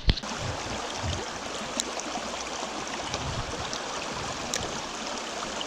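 A small mountain stream running over rocks: a steady, even rush of water. There is a brief sharp knock right at the start.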